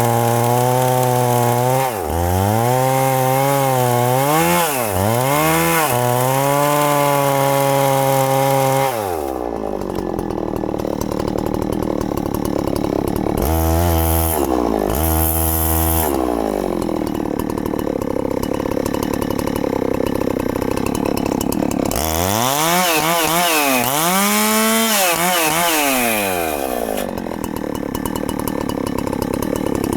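Two-stroke chainsaw cutting into a very thick tree trunk at full throttle. Its engine pitch repeatedly sags and recovers as the chain bogs down under load in the cut. Between the heavy stretches the engine runs lower and rougher.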